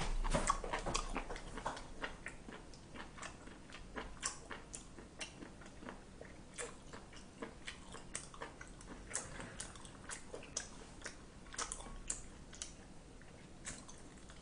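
A man chewing grilled pork with his mouth, faint wet smacks and small irregular clicks at an uneven pace.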